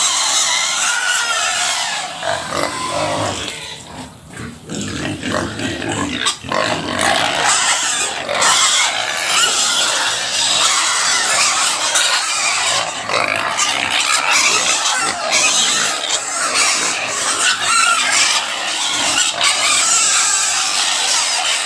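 Pig squealing loudly and almost without pause, a harsh, ear-piercing din, with a brief lull about four seconds in.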